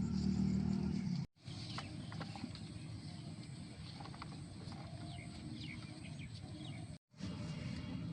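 Birds chirping over a low outdoor background. A steady low hum stops abruptly about a second in.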